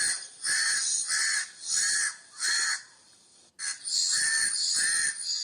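Crow cawing: a run of about five harsh caws, then after a short pause about three more.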